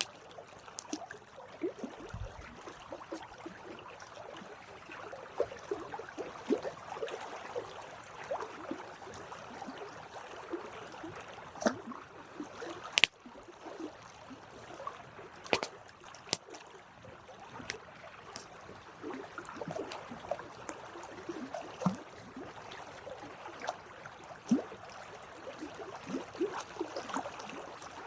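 Campfire burning: a steady hiss of burning wood broken by irregular sharp crackles and pops, the sharpest about halfway through.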